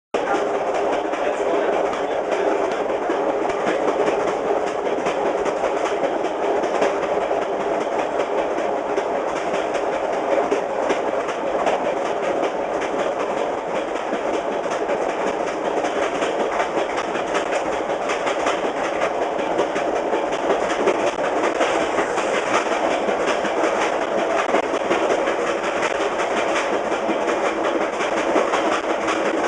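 Fast passenger train heard from its rear car, wheels clicking steadily over jointed rail with a continuous rumble and rush of rail and wind noise.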